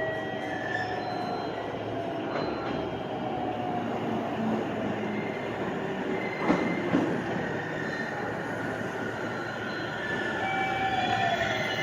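Electric commuter train moving along a station platform, its wheels and brakes squealing in several thin tones over a steady rumble, with one sharp clunk about halfway through.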